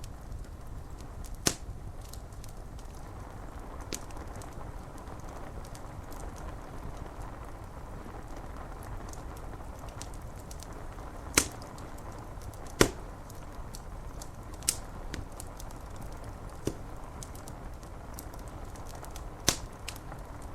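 Wood fire crackling, with scattered small clicks and a handful of louder sharp pops, over a steady hiss of rain.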